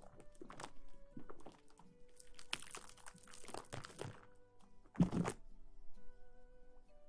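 Close-miked ASMR rustling and crinkling: irregular scratchy strokes, with a louder crunch about five seconds in, over soft background music.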